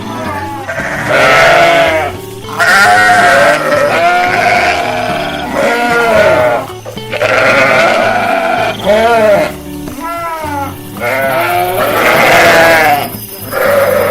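Sheep bleating, a long series of wavering calls about a second each, one after another with short gaps, over background music.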